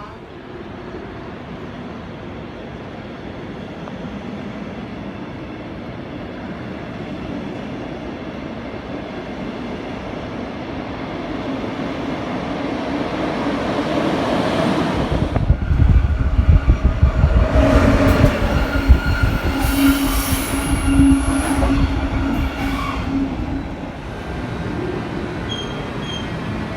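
A train running past at a station platform: its noise builds slowly for about fifteen seconds, turns into a loud heavy rumble with a steady whine for about eight seconds, then eases off.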